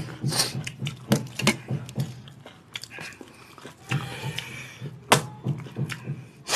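Mouth sounds of eating by hand, wet chewing and lip smacking on rice and chicken curry. Several short sharp clicks and knocks run through it, the loudest about five seconds in.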